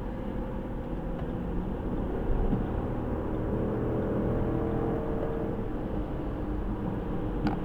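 Steady engine and tyre noise of a car driving at highway speed, heard inside the cabin, a little louder in the middle.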